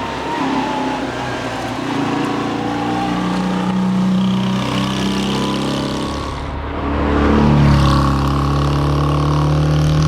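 Steyr Puch TR Europa's small air-cooled flat-twin engine under hard acceleration, revs climbing, then a short lift and drop in pitch about two-thirds of the way through as it changes up a gear, before pulling hard again at lower revs.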